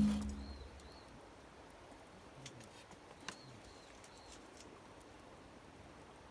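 Marimba-like background music fading out at the start, then quiet outdoor ambience with faint high bird calls, a pair of short chirps twice.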